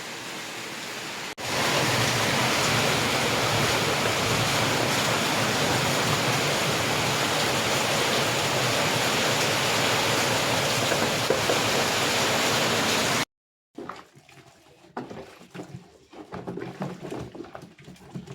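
Rain pouring down, a steady hiss. It jumps louder about a second and a half in and cuts off suddenly about two-thirds of the way through. Scattered short knocks and clicks follow near the end.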